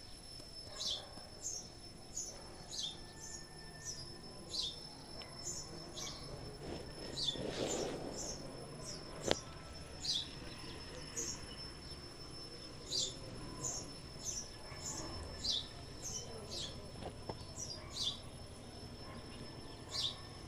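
Small birds chirping: short high chirps that drop in pitch, repeated about once or twice a second, over a thin steady high tone. A single sharp click about nine seconds in.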